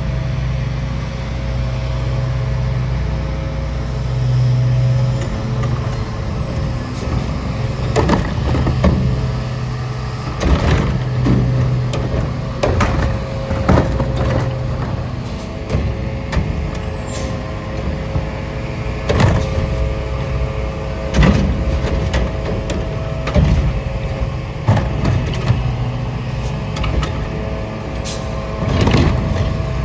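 Autocar ACX garbage truck with a Heil Curotto-Can loader, its diesel engine running steadily, with repeated metallic clanks and bangs over the top.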